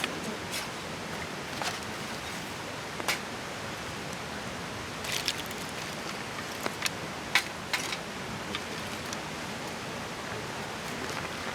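Steady rush of flowing stream water, with scattered sharp clicks and taps over it.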